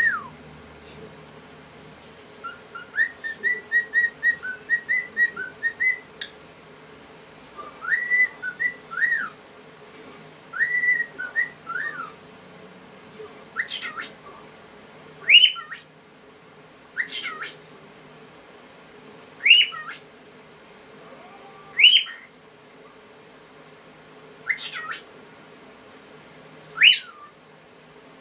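Cockatiel whistling: a quick run of short notes, then a few tune-like phrases, then a string of single whistles that sweep sharply up and back down, one every two to three seconds.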